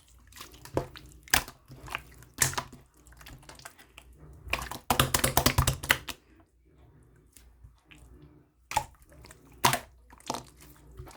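Slime being pressed and poked by hand: sharp wet clicks and pops at irregular intervals, with a dense run of rapid crackling pops about halfway through.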